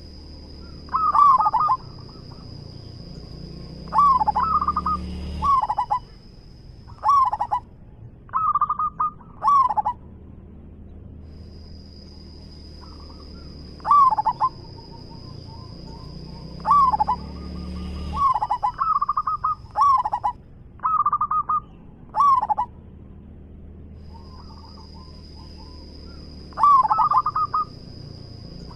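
Zebra dove (perkutut) cooing: repeated short, rolling coo phrases in clusters every few seconds, a local bird with a big, full voice singing often.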